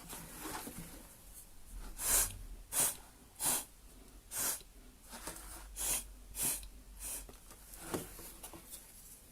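Short puffs of breath blown through a drinking straw, about eight sharp blows spaced under a second apart, starting about two seconds in.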